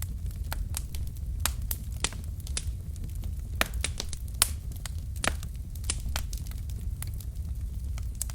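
Log fire in a fireplace crackling: irregular sharp pops and snaps over a steady low rumble of the flames, a few pops standing out louder.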